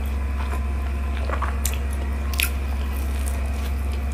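Close-up chewing of a sesame-coated untuk-untuk pastry with peanut filling, with a few sharp clicks, the sharpest about two and a half seconds in. A steady low hum runs underneath.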